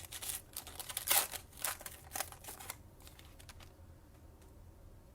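Trading cards being handled and flipped, a quick run of light clicks and rustles that stops about three seconds in.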